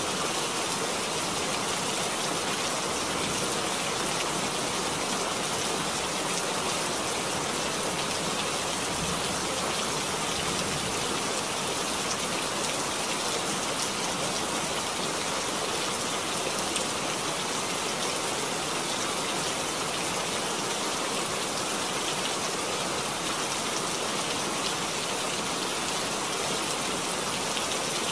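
Steady rain falling and splashing, an even wash of drops without a break.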